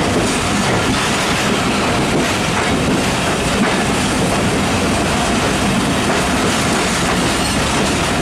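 Broad-gauge express train coaches running past close alongside, heard from the doorway of another train: a loud, steady rush of steel wheels on the rails with clatter.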